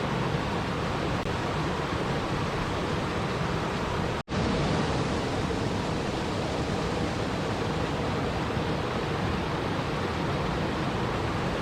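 Steady rushing water sound with an even hiss, cutting out for an instant about four seconds in and resuming at once.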